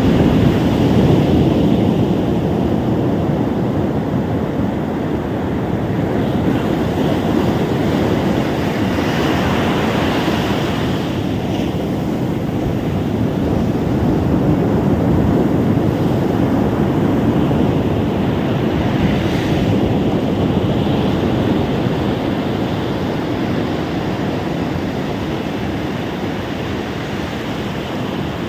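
Ocean surf washing onto a sandy beach: a continuous rush of breaking waves, swelling a little about ten and nineteen seconds in, over a low rumble of wind on the microphone.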